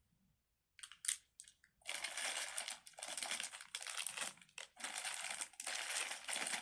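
Crinkly wrapping being handled and crumpled: a few light clicks about a second in, then steady crinkling in short bursts from about two seconds on.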